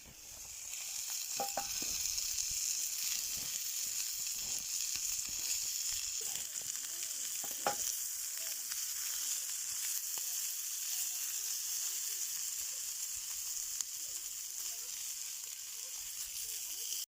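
Wiener sausages sizzling steadily in a cast-iron skillet over a wood fire: an even, high-pitched frying hiss.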